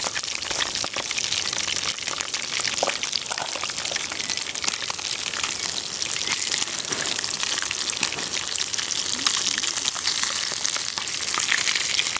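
Steady crackling hiss with many small pops throughout.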